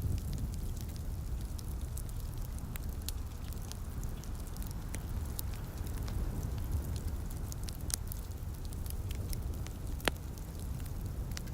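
Wood fire crackling with frequent small, sharp pops and one louder pop near the end, over a steady low rumble and the light hiss of rain.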